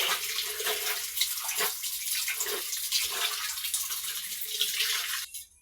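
Water splashing and running as clothes are washed or rinsed by hand in a basin. It cuts off abruptly near the end.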